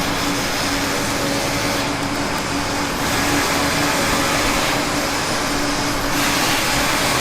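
Street construction noise: machinery running steadily, with a held humming tone over a constant wash of noise.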